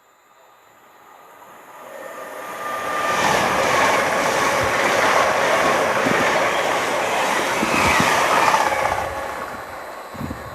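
A non-stopping train passing through the station on the main line. Its noise builds from quiet over about three seconds, stays loud for about six, then fades away.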